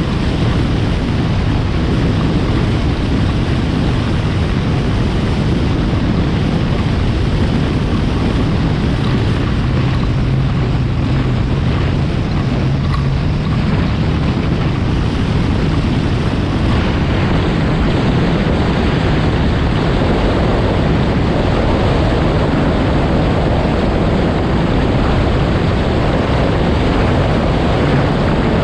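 Yamaha FX SVHO personal watercraft running at speed on the water, its engine note steady under heavy wind rush on the microphone and water hiss. The engine note drops for a few seconds about ten seconds in, then picks up again.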